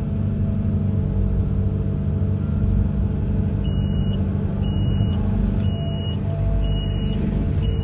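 Amphibious excavator's engine running steadily. About halfway through, a high-pitched warning alarm starts beeping, about once a second.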